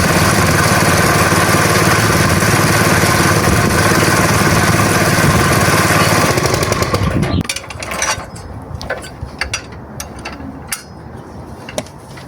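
A small engine running steadily, then cutting off suddenly about seven seconds in. Scattered clicks and knocks follow.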